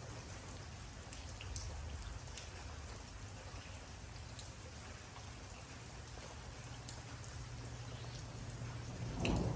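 Steady rain, with single drops ticking sharply on a surface. Near the end a low rumble of thunder begins.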